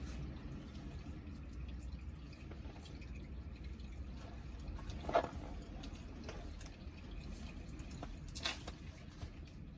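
Liquid dripping over a low steady hum, with two short knocks, about five and eight and a half seconds in.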